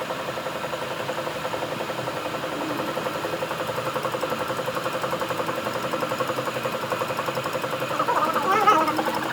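A workshop machine running steadily under its electric motor, with a fast even pulse and a steady hum. About eight seconds in a brief wavering, warbling higher sound joins it.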